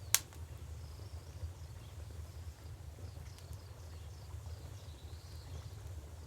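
River and crackling-fire ambience: a steady low rumble, with a sharp pop from the fire just after the start and a few faint crackles later. Faint high chirping runs over it.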